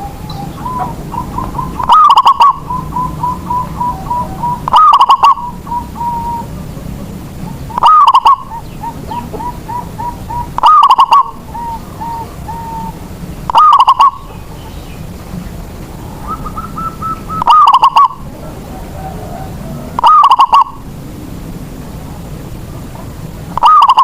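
Zebra dove (perkutut) singing its cooing song over and over: a loud phrase about every three seconds, each followed by a run of quick short notes.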